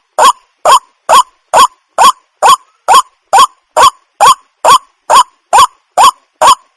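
Waterhen calling: a short, sharp note repeated evenly about twice a second, some fifteen times in a row, each note bending up and then down in pitch.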